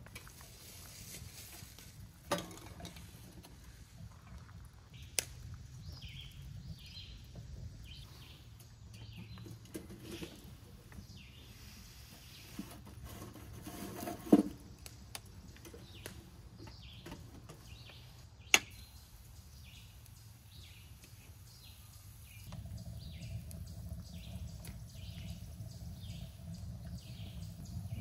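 Birds chirping over quiet outdoor ambience, with a few sharp knocks, the loudest about halfway through as the cast-iron pan on the wood stove is handled. A low steady hum sets in near the end.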